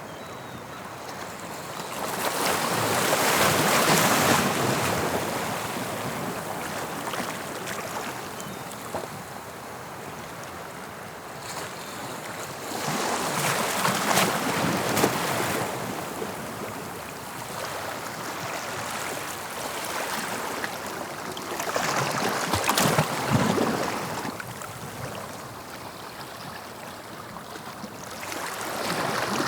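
Sea waves breaking and washing on the shore of the English Channel, swelling and falling back every eight to ten seconds, with four crests: about three seconds in, around thirteen to fifteen seconds, around twenty-two to twenty-three seconds, and at the very end.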